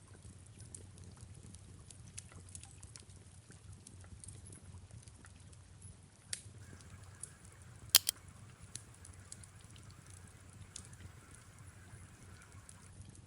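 Fireplace crackling: a low steady rumble of flames with scattered small pops, and one loud sharp crack about eight seconds in.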